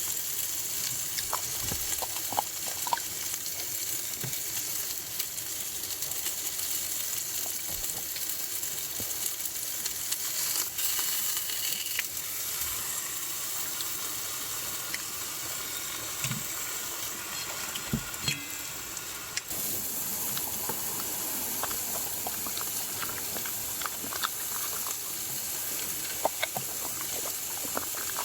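Food sizzling in a frying pan: a steady frying hiss with scattered small pops and clicks.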